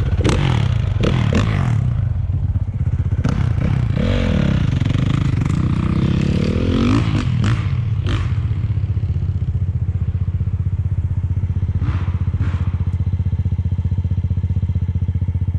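A small single-cylinder bike engine idling steadily close by, with some clattering and knocks in the first half.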